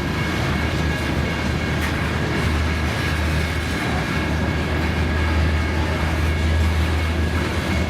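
Loaded rock train rolling past: a steady rumble of wheels on rail, with two thin steady high tones running through it.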